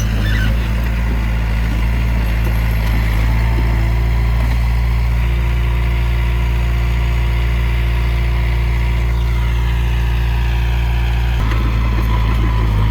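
Heavy diesel engine of earthmoving machinery running steadily with a deep, even drone. A thin higher whine joins it near the end.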